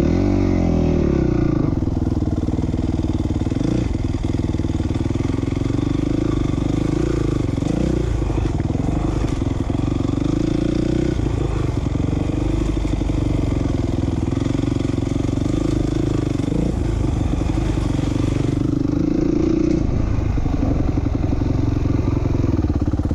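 Four-stroke single-cylinder 450 motocross bike engine under hard riding. The engine note climbs sharply at the start, then rises and falls every few seconds as the throttle rolls off and the rider shifts gears.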